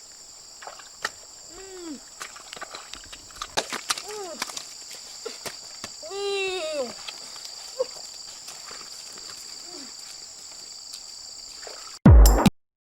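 Steady high drone of insects, with a few short calls that rise and fall and scattered light clicks. A brief loud burst comes near the end, then the sound cuts off.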